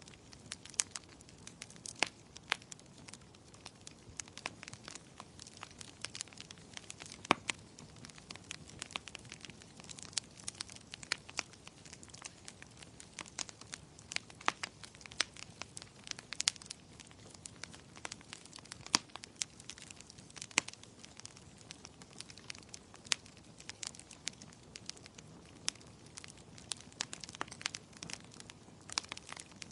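Wood fire crackling, with irregular sharp pops and snaps several times a second, some much louder than the rest, over a soft steady rain hiss.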